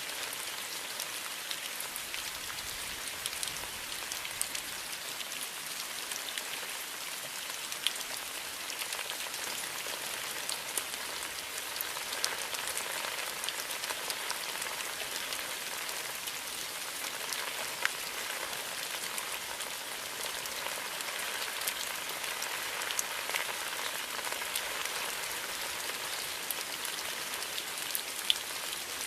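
Steady rain falling in a bamboo forest, an even hiss with scattered individual drop hits, a few louder ones standing out.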